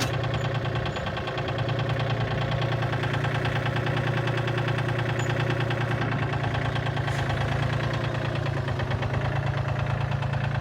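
Tractor engine running steadily, with an even pulsing beat.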